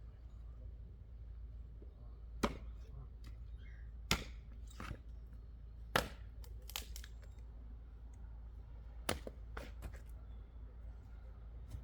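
Wood knocking and cracking in short sharp clacks a second or two apart, the loudest three in the first half, much lighter than a full axe strike: split firewood being knocked about and handled while chopping.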